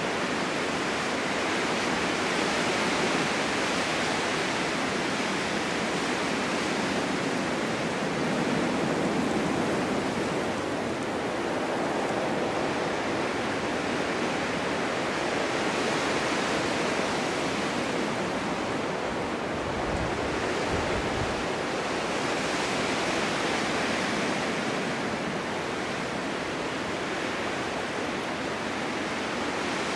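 Snowstorm wind blowing steadily, swelling and easing slowly, with a brief low rumble about twenty seconds in.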